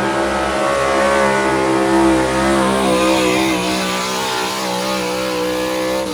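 Small-block V8 gas engine of a modified pulling truck, held at high revs under load during a pull, its pitch wavering slightly about halfway through. At the very end the engine note starts to fall as the throttle comes off.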